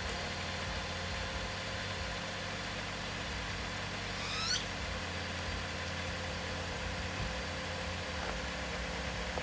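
2013 Chrysler 200's engine idling steadily. A short rising chirp sounds once about four and a half seconds in.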